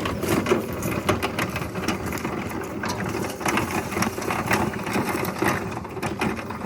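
Mowrator S1 all-wheel-drive electric mower driving along with its blades not yet running: a steady rattly motor-and-drivetrain noise, with many small clicks and crackles from the tractor-tread tires rolling over the ground.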